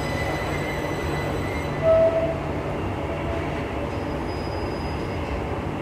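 Class 378 electric train drawing to a halt at an underground platform: a high electric whine from the train dies away about two seconds in, with a short, loud tone just after, then the stopped train hums steadily over a low rumble.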